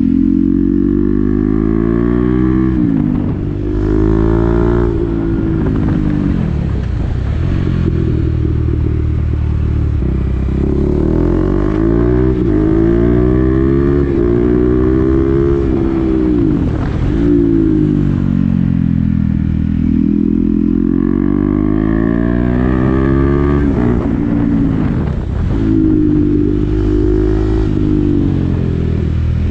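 KTM Duke 390 single-cylinder engine through an SC-Project exhaust with the dB-killer fitted, ridden on the road. Its pitch climbs again and again through the gears and drops sharply at each shift or when the throttle is eased off, several times over.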